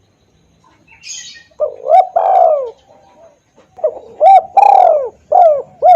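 Spotted dove (tekukur) cooing loudly and clearly, a lure call: two phrases of arched, repeated coos, the second starting about four seconds in. A short faint higher-pitched rasp comes just before the first phrase.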